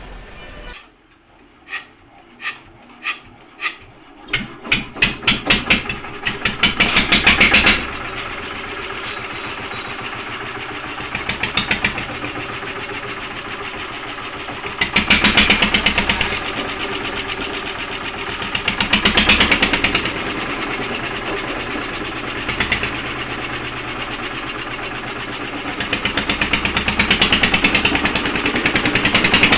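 Field Marshal diesel engine starting: a few separate firing knocks, widely spaced, begin about a second and a half in and quicken over several seconds until it catches. It then runs steadily with a fast, even beat that swells louder every few seconds.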